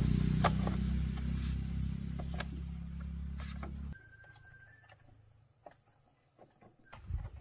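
A machine running with a low steady hum and scattered clicks, cutting off suddenly about four seconds in. A thin steady high tone runs throughout.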